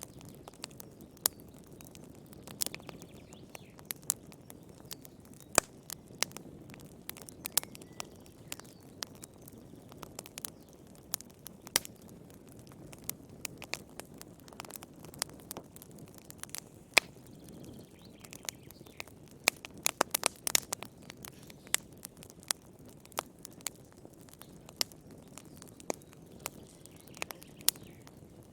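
Wood fire crackling in a fireplace: irregular sharp pops and snaps, with a cluster of them about twenty seconds in, over a low, steady rumble of the flames.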